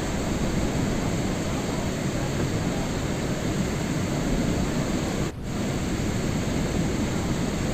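Steady rain noise: an even, dense hiss with a heavy low rumble. The level dips briefly about five seconds in.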